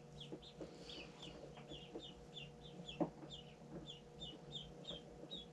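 Newly hatched runner ducklings peeping in their shipping box: a steady run of short, falling high peeps, three or four a second, with one sharp click about three seconds in.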